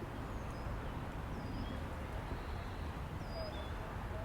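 Steady wind noise with a few short, high chirps and whistles from small songbirds scattered over it.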